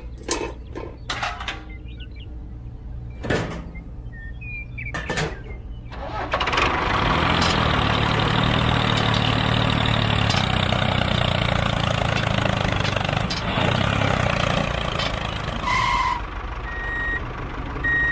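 An engine starts running loudly about six seconds in and keeps going steadily for about eight seconds, after a few sharp knocks over a low hum. Short beeps follow near the end.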